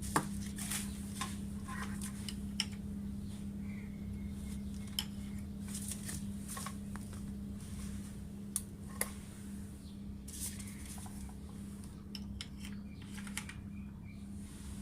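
Scattered light clicks and clinks of test leads and connectors being handled while a power supply is wired up, over a steady low hum.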